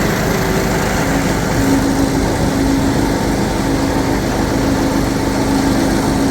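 A small motor running steadily, with a constant hum.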